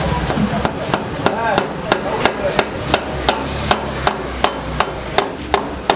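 A steady run of sharp knocks, like hammer blows on a hard surface, about three strikes a second.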